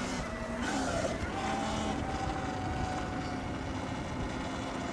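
Sur-Ron X electric dirt bike under way: the motor gives a thin, steady whine over a constant rush of wind and road noise.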